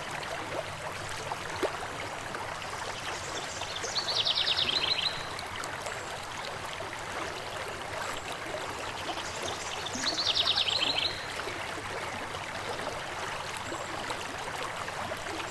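River water flowing steadily. A songbird twice sings a short, fast trill of high notes that falls slightly in pitch, about four and ten seconds in.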